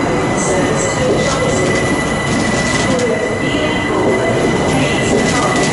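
Train moving through a station, with a loud, steady rumble and a steady high metal squeal from the wheels on the rails, broken by short higher screeches every second or so.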